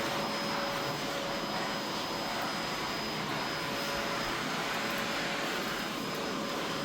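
A machine running steadily: an even rushing noise with a faint steady whine over it.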